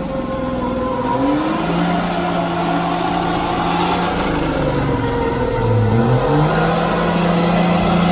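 Racing truck engines running hard and accelerating, the engine pitch climbing, then dropping and climbing again about six seconds in as the gears change.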